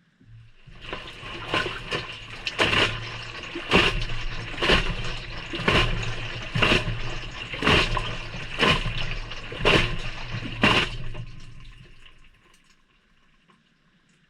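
Maytag front-loader drum turning through a delicate-cycle tumble, heard from inside the drum over a low motor hum: water and wet laundry slosh and splash down about once a second. The tumble starts just after the beginning and winds down to a stop near the end.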